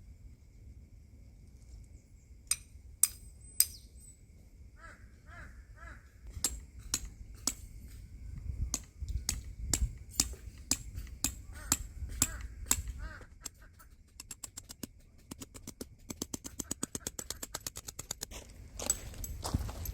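Birds calling over and over, mixed with sharp clicks and knocks, including a fast run of clicks partway through.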